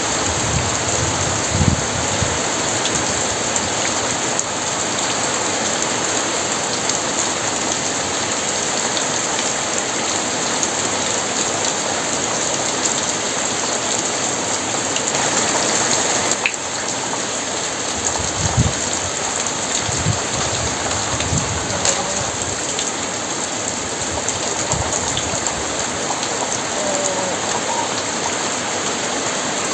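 Very heavy rain falling steadily, a dense hiss of drops on surfaces. It swells a little louder just past the middle and then drops back suddenly, with a few brief low thuds scattered through.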